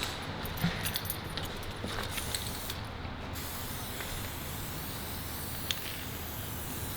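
Aerosol spray-paint can hissing steadily as paint goes onto the car, with a brief break in the hiss about three seconds in.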